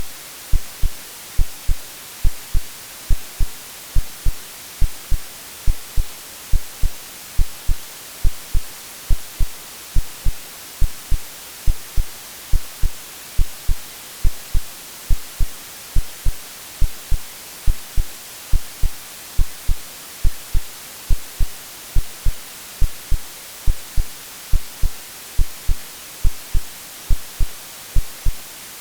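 AI-generated heartbeat, a steady, even rhythm of low thumps, over a constant white-noise hiss: a womb-like sound meant to soothe a baby to sleep.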